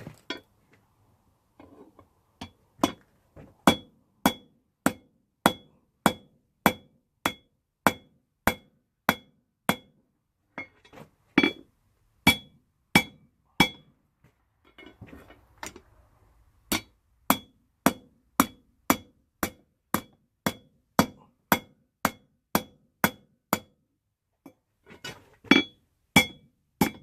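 Hand hammer striking rebar on an anvil in steady forging blows, each strike ringing out metallically. There are about one and a half blows a second, in three runs with short pauses between them.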